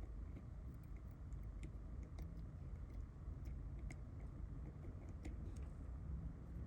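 Faint, irregular light clicks and taps, one or two a second, over a low steady rumble of background noise.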